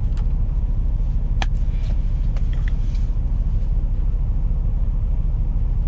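Semi truck's diesel engine idling, a steady low rumble heard from inside the cab, with a few faint clicks about one and a half to three seconds in.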